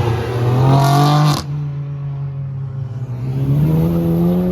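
A car's engine revving hard as it accelerates away. The engine note climbs, drops sharply about a second and a half in, then climbs again from about three seconds in.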